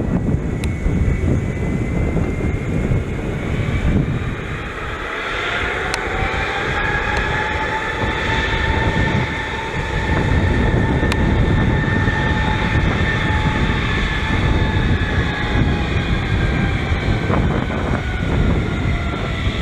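Airbus A320 jet engines at taxi power while the aircraft backtracks along the runway: a steady whine that climbs in pitch over the first few seconds, holds, then sags slightly near the end, over a continuous low rumble with wind on the microphone.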